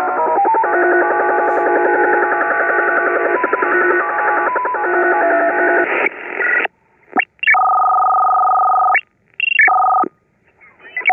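Shortwave radio reception from a Belka-DX receiver through a car-radio loudspeaker: a multi-tone digital data signal, many steady tones keyed in a fast rhythm over hiss. About six seconds in it cuts off, and after that short steady tones come and go with silences between them.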